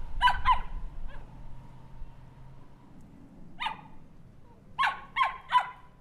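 Small dog barking in short, sharp barks: two quick barks at the start, a faint one just after, a single bark about three and a half seconds in, and three in quick succession near the end.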